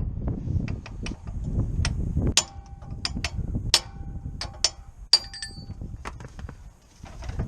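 Metal tools or parts clinking and clanking against each other: about a dozen sharp knocks, a few of them leaving a short metallic ring, over a low rumble.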